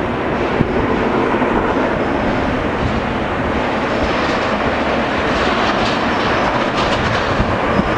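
Steady jet airliner engine noise.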